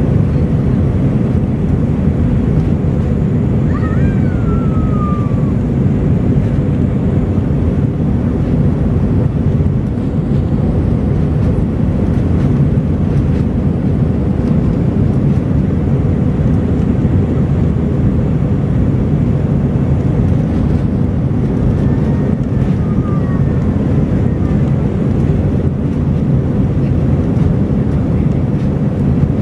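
Jet airliner noise, a steady low rumble that holds at one level throughout, with a faint hum above it. Two faint, brief falling tones sound through it, about 4 seconds in and again about 22 seconds in.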